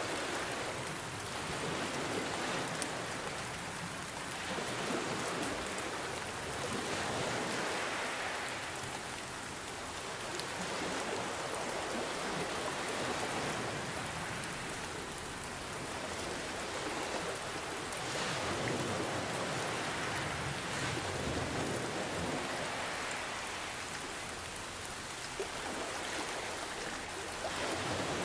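Steady rain mixed with ocean waves, the sound swelling and easing back every few seconds as the waves wash in.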